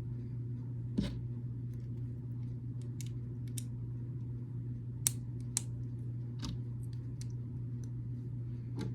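Small plastic building bricks clicking and tapping as pieces are handled and pressed together: scattered sharp clicks, the loudest about a second in and two around five seconds in, over a steady low hum.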